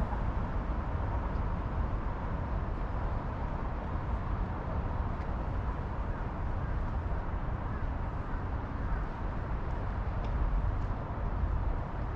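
Steady low outdoor rumble with no distinct events standing out.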